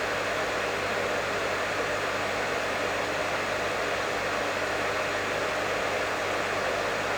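Professional hair dryer running steadily: a constant, even rush of blown air over a low motor hum.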